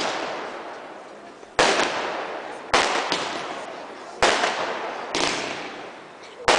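Fireworks bursting overhead: five sharp bangs about a second apart, each followed by a long echoing tail that dies away before the next.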